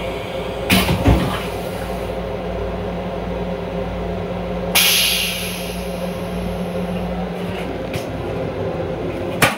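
Long Island Rail Road M7 electric railcar running, heard from inside its restroom: a steady rumble with a low hum. There are a couple of knocks about a second in, and a short hiss about five seconds in that fades over about a second.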